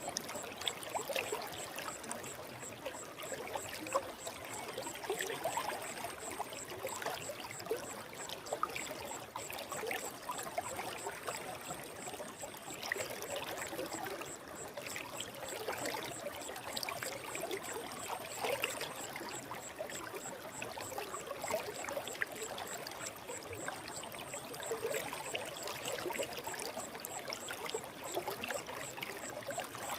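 Forest stream flowing, a steady babbling and trickling of water.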